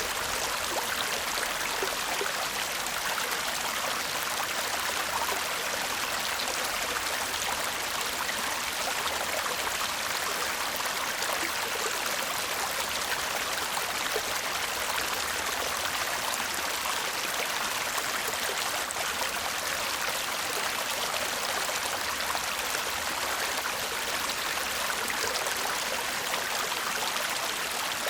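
A shallow stream babbling and murmuring over stones, a steady, even rush of water with fine trickling detail.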